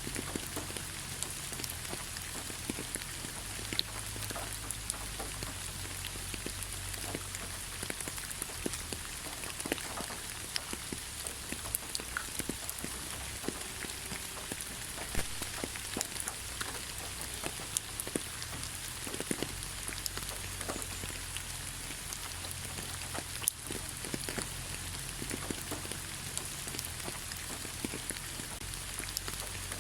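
Steady light rain falling on leaves, a soft hiss with many separate drops ticking irregularly, over a faint low rumble.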